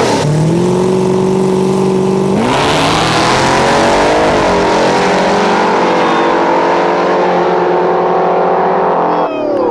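Drag race car engine held at steady revs, then about two seconds in it goes to full throttle with a burst of noise and climbing pitch. It runs hard until the pitch drops away near the end.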